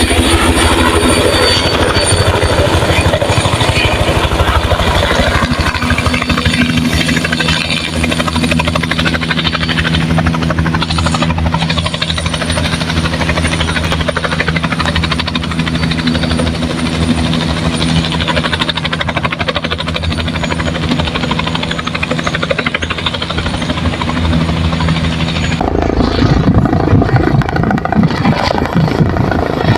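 Helicopter running close by, its rotor chopping steadily under a steady engine tone. Near the end the tones drop away and a rough, louder low rumble takes over.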